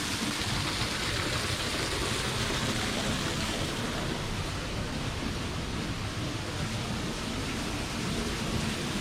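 Steady rushing of water, an even hiss that holds without breaks.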